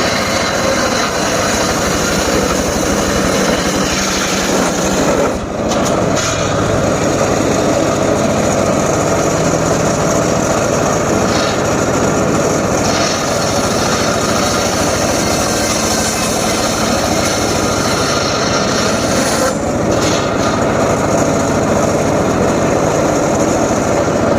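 Power saw running and cutting teak wood, a loud steady cutting noise that eases briefly twice, about five and about nineteen seconds in.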